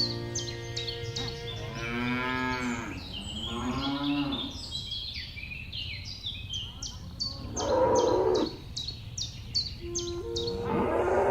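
Cattle mooing: two drawn-out moos that rise and fall in pitch in the first half, then louder, rougher moos about eight seconds in and near the end. Music with steady held notes and rows of short, high, falling chirps plays underneath.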